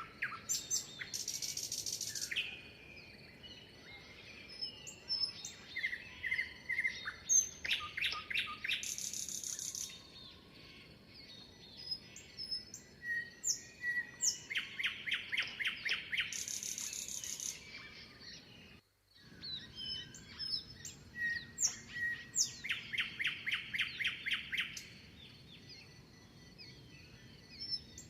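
Several songbirds singing and calling together. A rapid trill of about two seconds repeats every few seconds, mixed with very high, thin buzzy notes and many short chirps. The sound drops out briefly about two-thirds of the way through.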